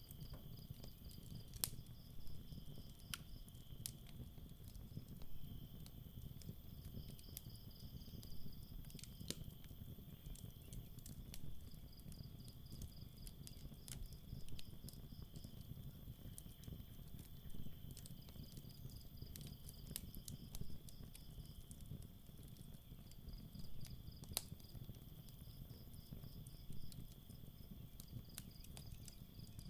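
Campfire crackling, with scattered sharp pops over a low rumble, against night insects: crickets chirping in repeated pulsed trains over a steady high trill.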